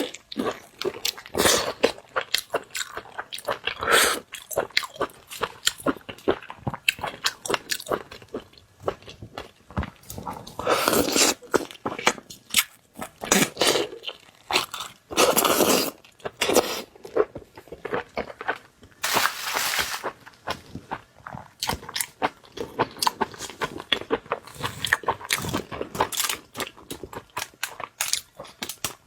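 Close-miked chewing and biting of shrimp: irregular crunches, with louder clusters of bites every few seconds.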